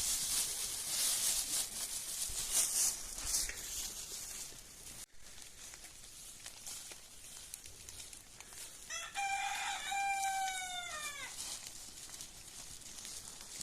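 A rooster crowing once, a single long call about nine seconds in that falls in pitch at the end. Before it, a few seconds of hissing, crackly noise cut off abruptly.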